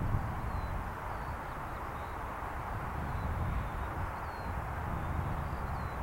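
Steady low rumble of distant jet aircraft, with faint chirps of small birds scattered throughout.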